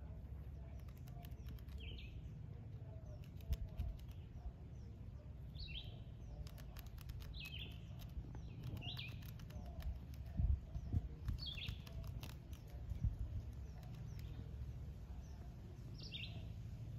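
A bird chirping repeatedly outdoors, one short high call every second or two, over a low steady rumble with scattered light clicks and a few dull low thumps.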